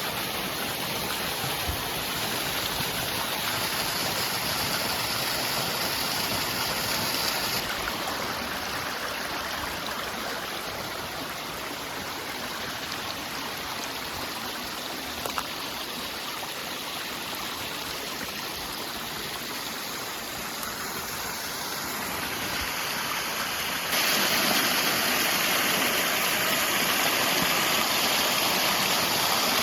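Steady rush of water tumbling down a mountain streambed. The sound changes abruptly twice and is louder over the last few seconds.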